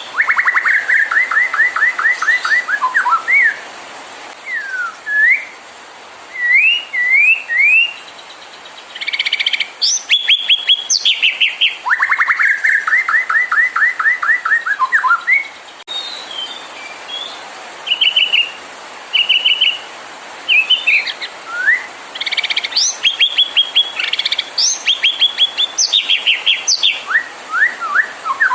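White-rumped shama (murai batu) singing in varied phrases: fast trilled runs near the start and again about halfway, short rising whistles, and higher chattering notes, with brief pauses between phrases.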